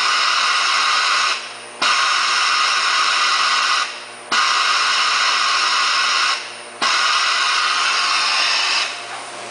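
Compressed-air blow-off on a ZMD 523 VJR thermoformer, which frees the formed plastic part from the mold. Repeated loud blasts of hissing air, each about two seconds long, cut in sharply and tail off, with brief gaps between them.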